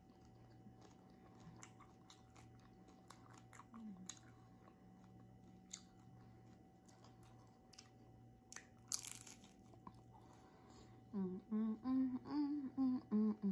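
Close-up chewing and crunching of a fried corn tostada, with scattered crunchy clicks and one louder crunch about nine seconds in. Near the end come several short mumbled vocal sounds made through a full mouth.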